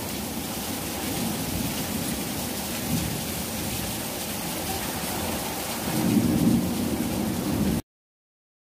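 Heavy rain falling on a tiled porch and yard, a steady hiss, with a brief louder low swell about six seconds in. It cuts off suddenly just before the end.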